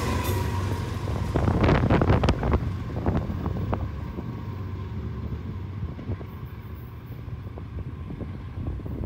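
Low, steady rumble of an approaching diesel freight locomotive, with wind buffeting the microphone. A cluster of sharp knocks comes about one and a half to two and a half seconds in, followed by a few fainter clicks.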